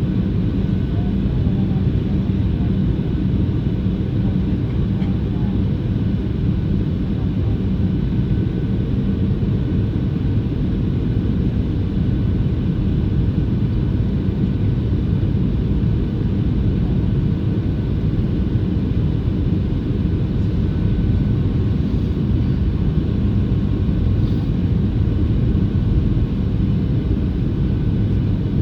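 Steady cabin noise of a Boeing 737-700 with its CFM56 turbofan engines running, heard from inside the passenger cabin. It is a low, even rumble with a faint steady hum.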